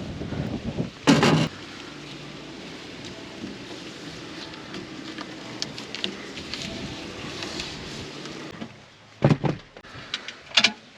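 Hand work on tractor wiring: a loud rasp about a second in, a quiet stretch, then a few sharp knocks and clatters near the end.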